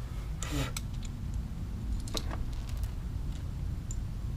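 A few light, sharp metallic clicks and taps of hand tools being handled during work on the truck's wheel studs, the clearest about half a second in and just after two seconds, over a steady low hum.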